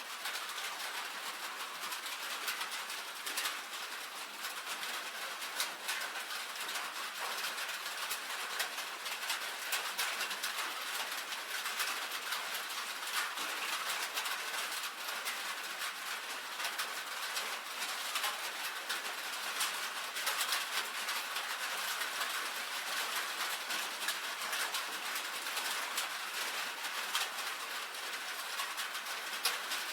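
Rain on a tin roof: a steady, dense patter of many drops ticking on the metal.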